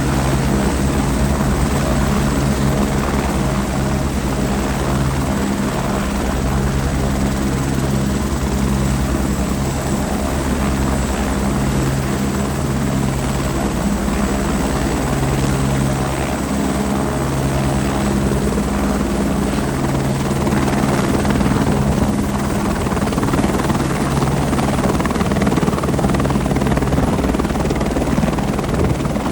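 Helicopter running loudly and steadily at close range as it takes off, its rotor and turbine making a dense, even drone that grows a little louder about two-thirds of the way through.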